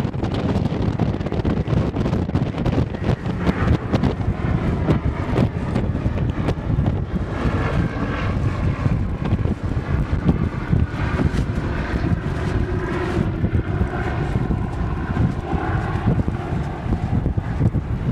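An aircraft engine droning as a display plane flies past. A faint pitched hum comes in about three seconds in and fades near the end. Heavy wind buffets the microphone throughout.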